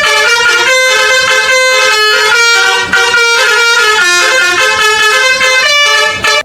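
Multi-tone 'telolet' bus horn playing a fast tune, several pitches sounding together and stepping from note to note every few tenths of a second.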